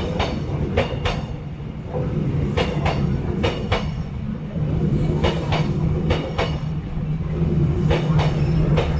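A train passing close by, its wheels clacking repeatedly over the rail joints over a steady low drone.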